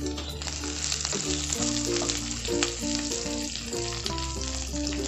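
Sliced onions and whole spices sizzling in a little hot oil in a wok, stirred with a wooden spatula that adds faint scrapes and taps to a steady frying hiss. Background music plays underneath.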